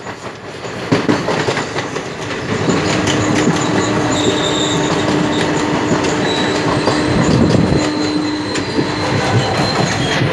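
Indian Railways passenger coaches rushing past at close range: steel wheels running over the rail joints with a steady rumble and rapid clicks. A steady humming tone comes in about three seconds in and stops about a second before the end.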